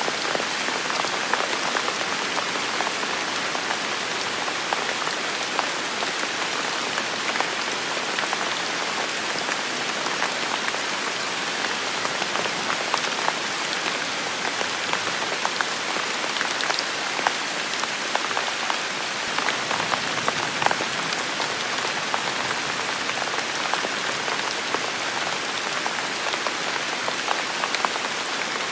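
Steady heavy rain falling in a forest, a dense even hiss with many individual drops pattering close by.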